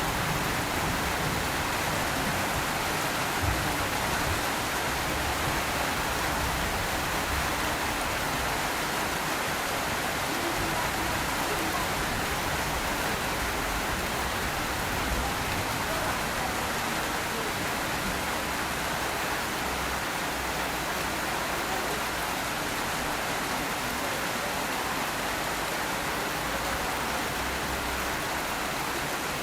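Steady rain falling and pattering on surfaces, an even hiss of noise throughout, with a few faint low knocks of drops.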